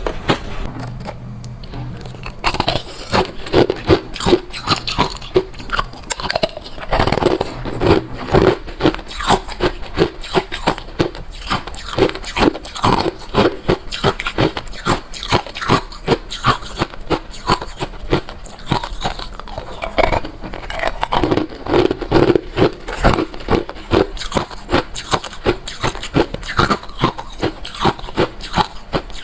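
Close-miked chewing of refrozen crushed white ice: hard, crunchy bites repeated several times a second without a break.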